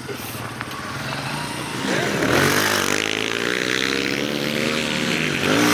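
Pit bike's small four-stroke engine revving. It grows louder over the first two seconds, its pitch sweeping up, then holds a high, steady rev until near the end.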